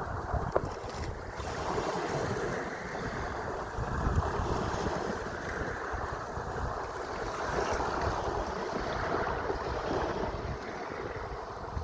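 Sea waves washing in steady noise that swells and eases every few seconds, with wind buffeting the microphone as a low rumble.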